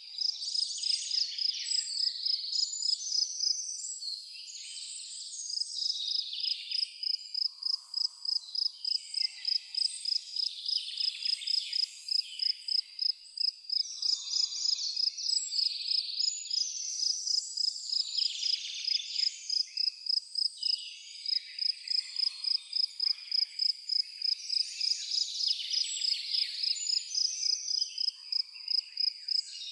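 A cricket chirping steadily, an even high-pitched pulse of about two to three chirps a second, with several songbirds singing over it in irregular phrases and a softer, lower bird call now and then.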